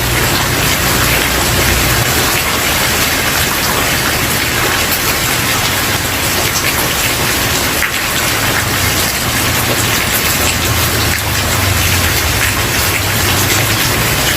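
Steady rain falling on a wooden porch, a dense even patter of drops. A low rumble swells and fades underneath at times.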